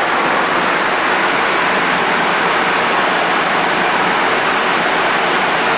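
Steady rush of airflow and engine noise on the flight deck of a Boeing 737-200 freighter in cruise, an even hiss with a faint steady hum underneath.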